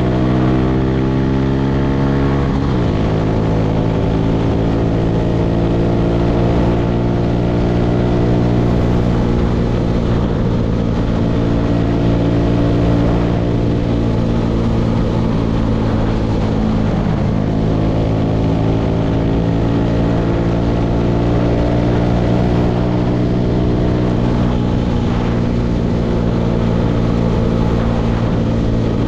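Tractor engine running steadily while working a hay baler. Its note drops a little about three seconds in and dips briefly, then recovers, about two thirds of the way through.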